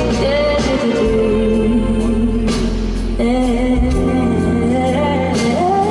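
Live pop music: a band with a sustained, held accompaniment and a woman's singing voice carrying long notes between lines of the song.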